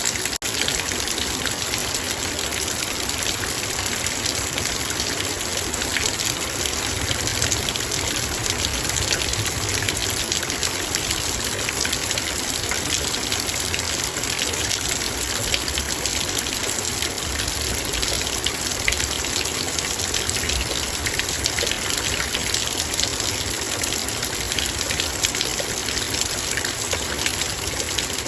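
Heavy rain falling on a metal bowl: a dense, steady patter of countless drops striking the metal over the even rush of the downpour.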